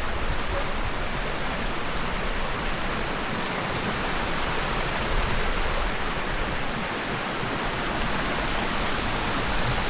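Steady rushing of running or falling water, an even hiss with no breaks.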